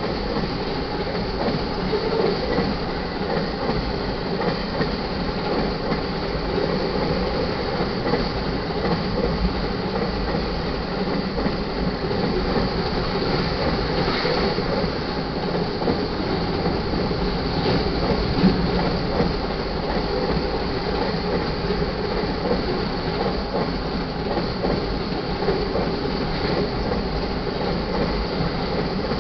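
Steady, continuous noise of a vehicle in motion, unchanging in level, with no distinct knocks or breaks.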